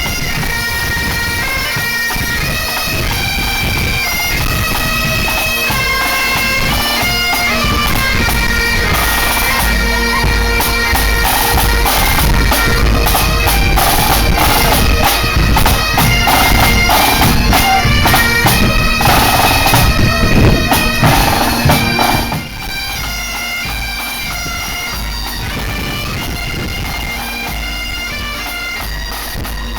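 Pipe band playing: bagpipes sounding a tune over their steady drones, with drums beating underneath. The music drops in loudness about 22 seconds in and carries on.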